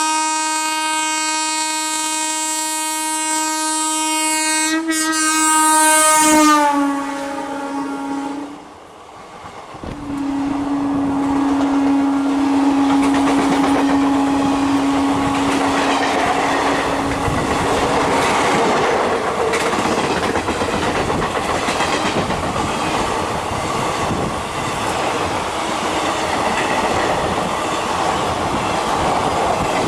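WAG-7 electric locomotive's horn sounding a long chord that dips in pitch as the locomotive passes about six seconds in, then stops. After a brief lull a second long, lower horn note sounds while the passenger coaches rush past with steady wheel clatter over the rail joints.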